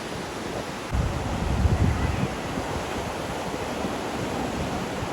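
Ocean surf washing in, a steady hiss of waves, with wind buffeting the microphone as a low rumble from about a second in.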